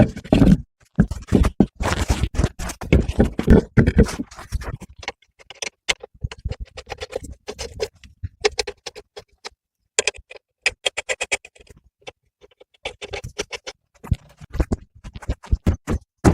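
A long run of rapid, irregular clicks and knocks with some scraping, pausing briefly a few times.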